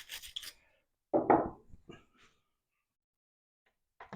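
A few quick scrubbing strokes of a metal wire brush, then a single knock about a second in.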